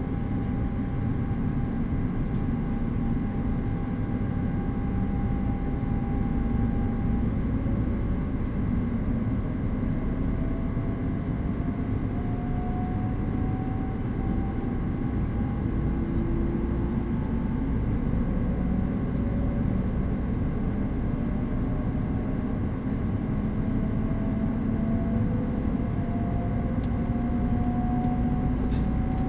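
E2 series Shinkansen running sound inside the passenger car as it accelerates away from a station: a steady low rumble of wheels on rail, with the traction motors' whine rising slowly in pitch in several steps.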